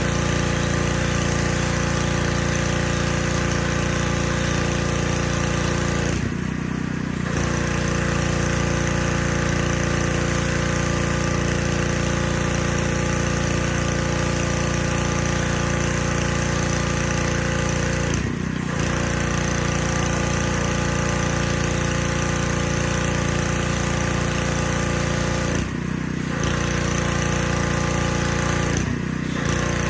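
Pressure washer running steadily, with a hissing spray over its motor and pump. Its sound dips briefly four times, once for about a second and three times more briefly.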